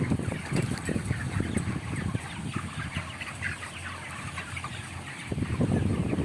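Birds calling: a dense run of many short chirps, with a low rumbling noise beneath.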